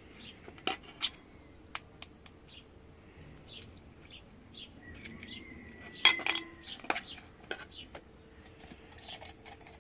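Dishes and cooking utensils clinking: scattered light clicks and knocks, with one loud clink about six seconds in that rings briefly.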